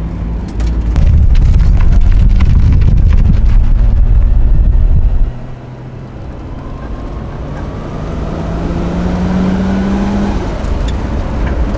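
Nissan Skyline R33 driving, heard from inside: a loud low rumble of wind and road noise for about five seconds that drops away suddenly, then a whine that rises slowly in pitch as the car gathers speed.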